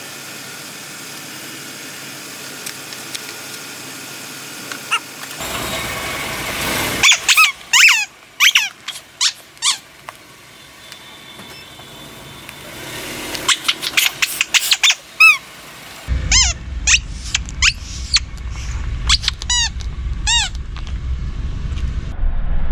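Rubber squeaky toys squeaking over and over as they are squashed by a car: short, high squeaks that each drop in pitch, some single and some in quick runs. In the last few seconds a low car rumble runs underneath.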